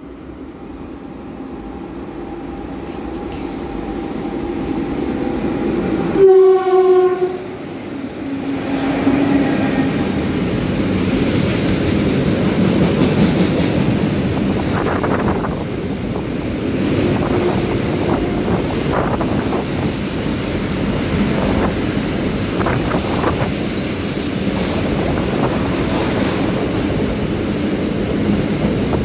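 A goods train approaches, growing steadily louder, and its locomotive horn sounds one blast of about a second around six seconds in. Then the wagons, loaded with steel coils, pass close by with a continuous heavy rumble and repeated clatter of wheels over the rail joints.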